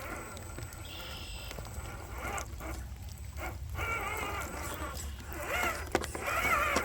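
Electric motor and gear drivetrain of an RC4WD Gelande 2 scale crawler whining as it strains up a muddy climb, the pitch rising and falling with the throttle in several pulses over the second half.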